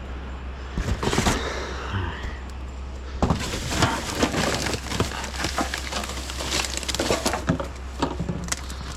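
Junk being rummaged through by hand: hard objects clattering and crunching against one another, with a sharp clatter about a second in and busy, irregular rattling and knocking from about three seconds on.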